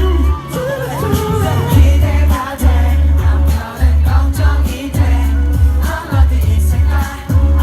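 Live K-pop performance: a sung vocal over a pop backing track with a heavy, regular bass beat.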